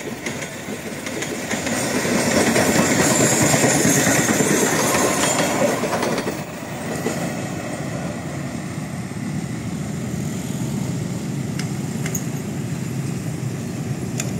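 Long freight train of empty flat wagons rolling past, steel wheels clattering over the rail joints. Loudest a few seconds in, the sound drops suddenly about six seconds in and carries on at a steadier, lower level.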